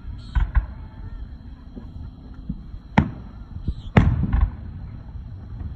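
Aerial firework shells bursting: a quick double bang about half a second in, a single bang about three seconds in, then two more about a second later.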